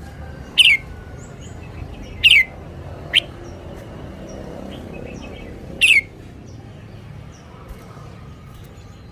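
Red-whiskered bulbul calling: four loud, short notes, each sweeping down in pitch, spaced a second or more apart, with faint softer chirps in between.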